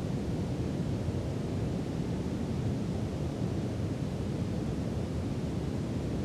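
Steady brown noise: an even hiss with most of its weight in the low end, unchanging throughout.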